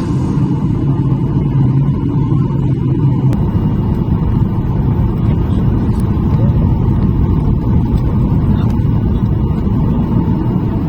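Steady low rumble of a jet airliner's engines and airflow heard inside the cabin around landing.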